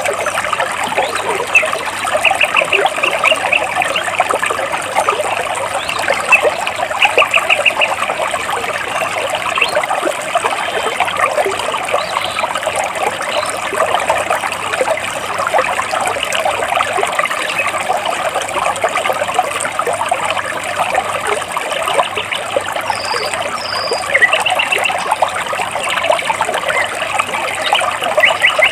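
Stream water flowing and splashing between rocks, a steady burbling. Over it a bird gives quick runs of repeated chirps a few times, near the start, around a quarter of the way in and again near the end, with two short higher notes just before the last run.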